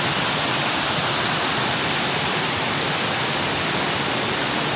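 Waterfall of the Leuk river: a steady rush of falling water.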